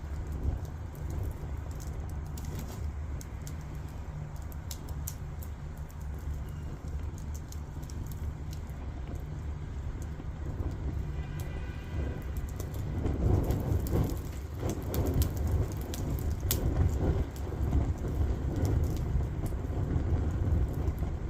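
Firewood burning, with scattered crackles and pops over a steady low rumble that grows louder about two-thirds of the way through.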